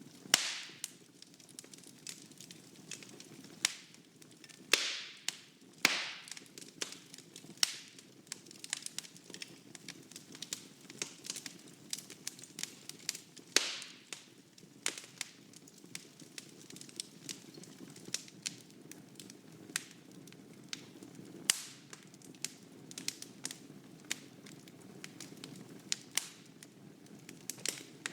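Wood fire burning in a fireplace: a steady low rush of flame with irregular crackling and sharp pops of the logs, several loud snaps among them.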